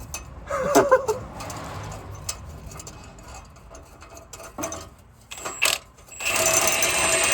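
Light metal clinks and clatter from tools and exhaust parts being handled, with a louder steady whirring hiss carrying a few held tones for the last second or so.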